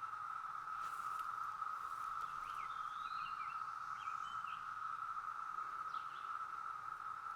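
Chorus of 17-year periodical cicadas: one steady, unbroken high drone. A bird chirps a few times in the middle.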